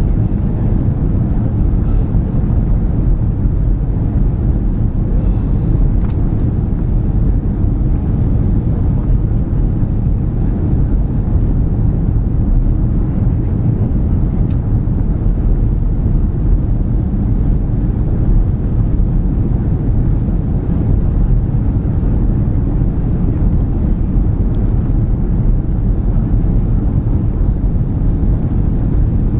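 Steady low rumble of airflow and engines inside the cabin of an Airbus A340 on approach.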